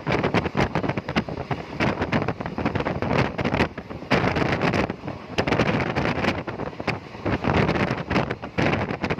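Wind buffeting the microphone from a moving vehicle, in irregular gusts over the rumble of the ride.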